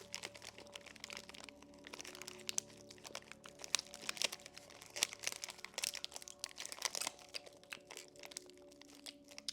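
Close-miked crunching of a crisp snack mixed with the crinkling of a plastic snack wrapper: many sharp, irregular cracks. Soft background music with held notes plays underneath.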